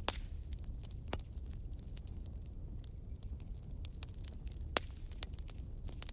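Campfire crackling: burning wood giving off sharp, irregular pops and snaps over a low steady rumble of the flames, with the strongest pops about a second in and near five seconds.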